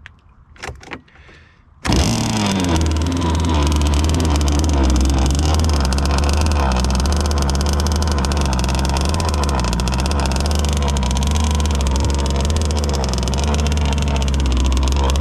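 Zenoah gas two-stroke engine of an RC boat comes in suddenly about two seconds in, after a couple of short clicks, and runs steadily and loudly.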